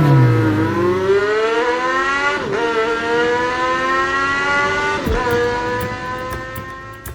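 Car engine accelerating hard through the gears: the pitch climbs steadily, drops at a gear change about two and a half seconds in and again about five seconds in, then climbs again. It fades away near the end.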